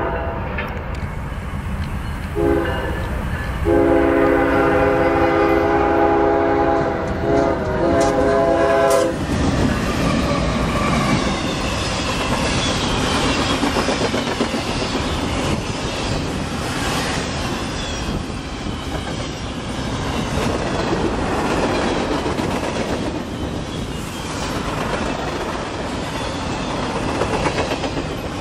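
Norfolk Southern GE ES44AC diesel locomotive's air horn blowing for a grade crossing: a short blast at the start, then a long chord from about two seconds in to about nine seconds, with a brief break near the beginning. Then the locomotives pass and a long train of freight cars rolls by close up, a steady rumble with wheels clicking over the rail joints.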